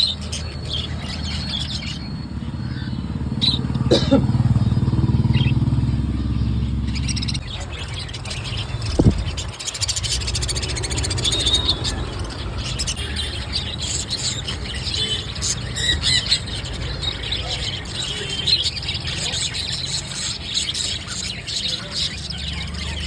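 Sun conures chirping in many short, high calls over a steady low rumble.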